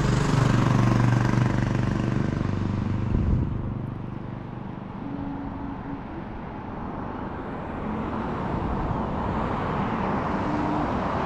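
Car driving on the road: a steady engine hum and road noise, louder for the first few seconds, then dropping and slowly building again.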